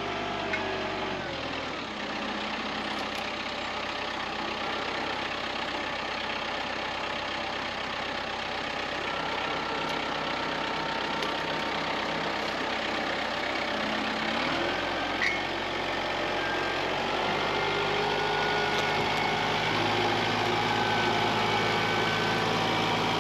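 Tractor diesel engine running steadily. Its speed drops about a second and a half in and picks up again past the midpoint.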